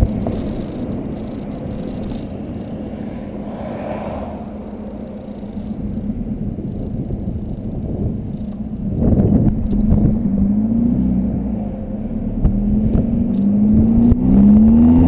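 Volkswagen Golf 2.0 TDI diesel engine running through a 3-inch Cortek exhaust with a high-flow cat, while driving. Its pitch rises in several sweeps in the second half as it accelerates, with a brief rush of noise about nine seconds in.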